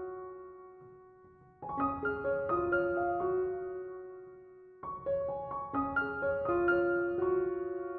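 Background music: gentle solo piano playing slow phrases of notes that ring and fade, a new phrase starting about a second and a half in and again near five seconds.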